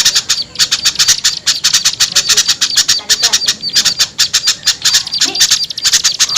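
Bird-lure recording of small songbirds in a noisy, agitated mix of calls: harsh chattering notes repeating many times a second, with no pause. It is a combination of small-bird alarm chatter used to draw reluctant small birds down.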